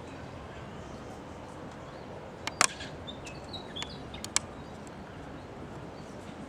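Faint, short high chirps of small birds over a steady outdoor background hiss, with several sharp clicks, the loudest a little over two and a half seconds in.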